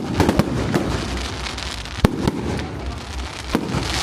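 Fireworks display: a run of sharp bangs from bursting shells, the loudest about two seconds in, over a steady crackling hiss.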